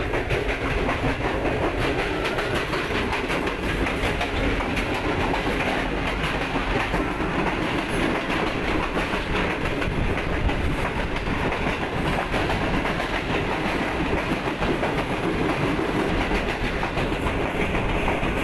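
Track sound of a moving passenger train, heard from inside the coach: wheels running on the rails with a steady rumble and a dense run of small clicks and rattles.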